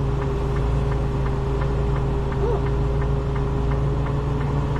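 Semi-truck diesel engine running steadily, with a regular light ticking over the hum.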